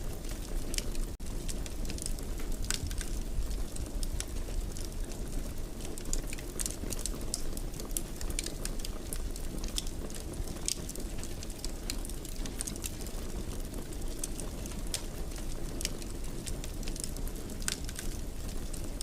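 Fireplace fire crackling, with irregular sharp pops and snaps over a steady low rumble, and a momentary dropout about a second in.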